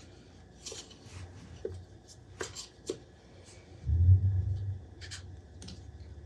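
Parts being handled on a workbench: scattered light clicks and taps, with a low rumble for about a second just past the middle.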